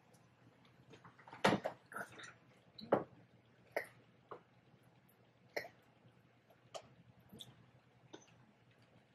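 Close-miked eating of barbecue ribs: irregular short wet clicks and smacks of chewing, about ten in all, loudest about one and a half and three seconds in.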